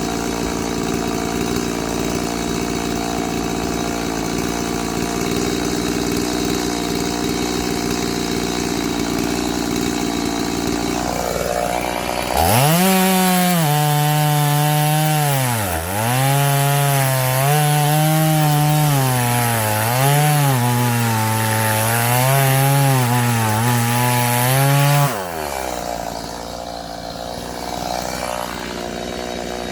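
Chainsaw running. About twelve seconds in it goes to full throttle and cuts into firewood logs for roughly twelve seconds, its engine pitch sagging and recovering as the chain bites, then drops back abruptly.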